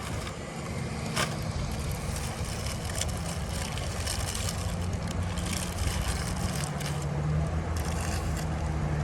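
A motor vehicle's engine running close by and shifting in pitch as it moves, over general parking-lot traffic noise, with a few brief clicks.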